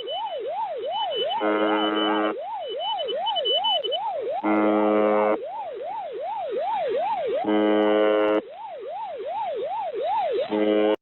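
Shortwave radio reception of the UVB-76 'Buzzer' station: its coarse buzz, about a second long, repeating every three seconds, overlaid by a pirate's siren-like tone sweeping up and down about three times a second. The sound cuts off suddenly at the very end.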